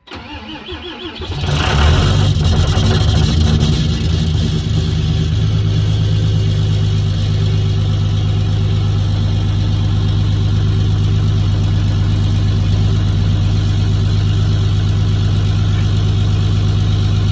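2008 Cummins diesel truck engine cranking briefly, catching about a second in and revving up, then settling into a steady idle. A cold start in sub-zero weather.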